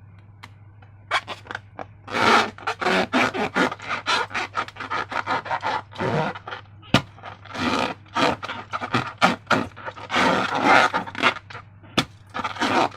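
Latex balloons and slime being handled: quick, irregular rubbing and scraping strokes, with a couple of sharp clicks.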